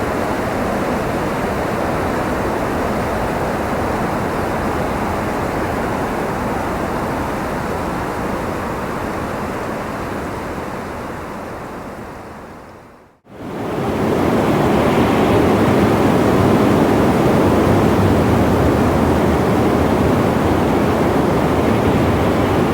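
Steady rushing wind noise that fades down to a moment of silence about thirteen seconds in, then comes back louder, as a looped recording restarting.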